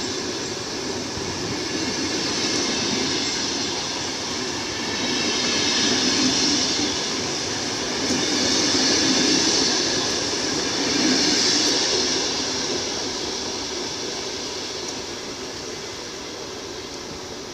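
VR commuter train's passenger coaches rolling past on the rails as the train departs. The noise swells every few seconds as each car goes by, then fades steadily as the train draws away.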